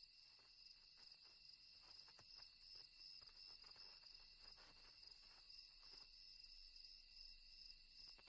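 Faint night-time cricket chorus: a steady, continuous high-pitched trilling, with a few faint ticks.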